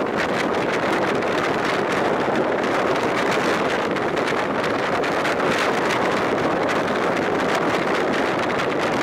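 Passenger train running along the track at speed, a steady noise of wheels and carriages, with wind buffeting the microphone held out of the carriage window.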